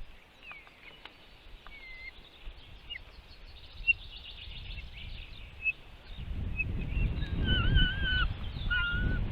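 Small birds chirping, with short whistled calls scattered through and a louder warbling call near the end. From about six seconds in, a low rumbling noise joins them.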